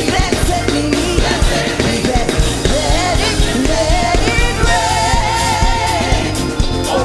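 Live gospel praise and worship music: singers over a band with drums. Near the middle, a voice holds a long, wavering note.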